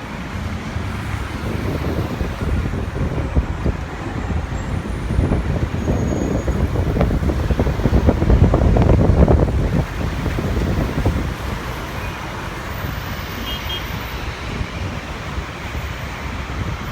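Aircraft engine noise from a passing plane: a rough, crackling rumble that swells to its loudest about eight to nine seconds in, then eases off.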